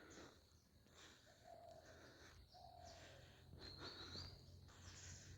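Near silence in open forest, with a few faint, short bird calls and a faint low hum coming in after about three and a half seconds.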